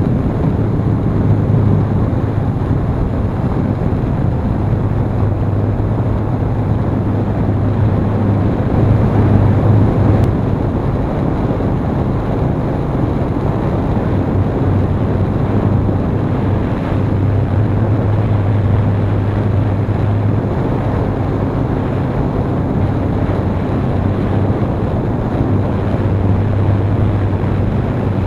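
Hexacopter's motors and propellers running with a steady low drone, mixed with strong wind buffeting the microphone.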